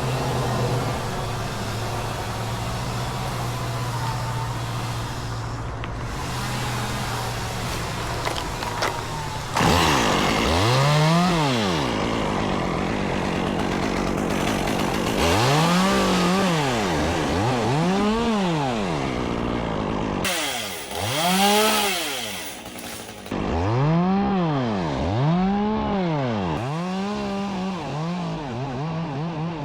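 Engine running at a steady pitch, then from about ten seconds in a chainsaw is repeatedly revved up and let back down, about every two seconds, as it cuts wood.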